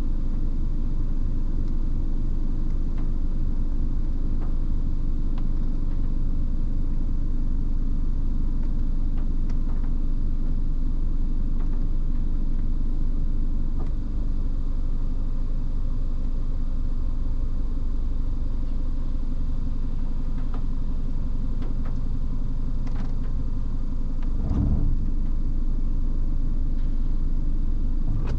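A car driving in the rain: a steady low rumble of road and engine noise, with scattered faint ticks and one brief heavier thump near the end.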